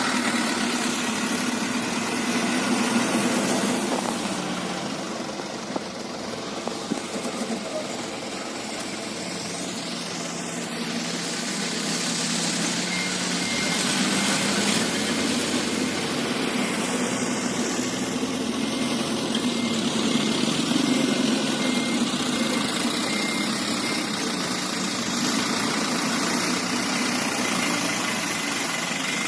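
Hino Dutro light truck's diesel engine running under a load of sand, its level swelling and easing several times.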